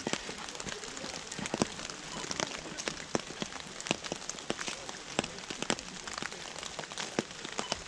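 Steady rain falling on wet pavement, with irregular sharp taps throughout.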